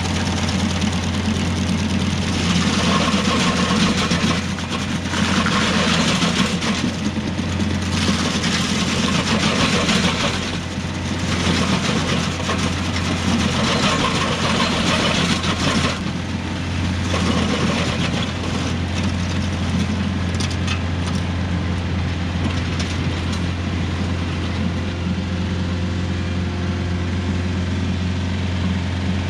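Rural King RK55 tractor's diesel engine running steadily, driving a Woodland Mills WG24 PTO stump grinder. Noisy bursts come through during the first half of the grinder's cutter working, and the sound settles to a steadier run after about sixteen seconds.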